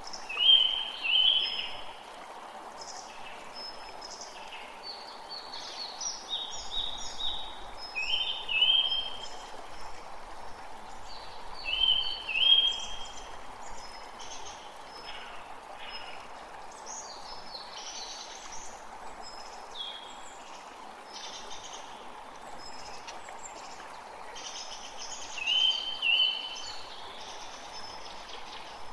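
A forest creek running steadily, with several birds singing over it. The loudest is a short call given twice in quick succession, which comes four times: at the start, around eight and twelve seconds in, and near the end.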